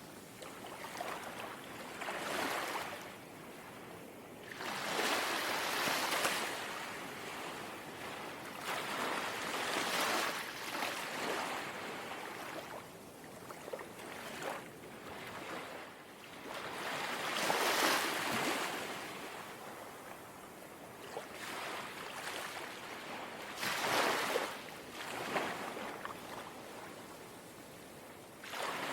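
Small, calm sea waves lapping and washing on the shore, swelling and fading every few seconds over a steady background hiss.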